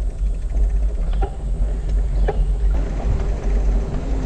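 Wind rumbling on a bike-mounted GoPro's microphone while riding, a steady low rumble, with two light ticks about a second and two seconds in.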